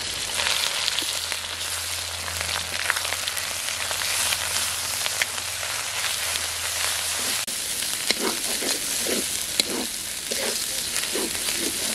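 Ground spice pastes and fried onions sizzling in hot mustard oil in a steel kadai. In the second half a metal spatula stirring the paste clicks and scrapes against the pan.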